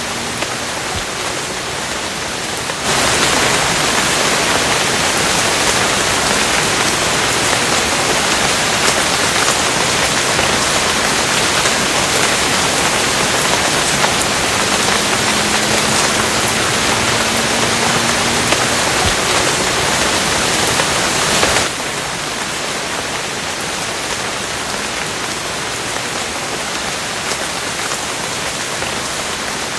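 Steady rain falling, an even hiss without a break. About three seconds in it jumps abruptly to a louder, heavier sound, and just before the last eight seconds it drops back just as suddenly.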